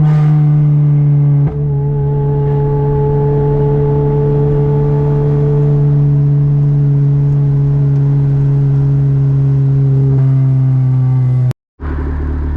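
Toyota 2ZZ-GE 1.8-litre inline-four in a Corolla running steadily under way, its pitch easing down slowly. There is a brief dip about a second and a half in, and the sound cuts out suddenly near the end.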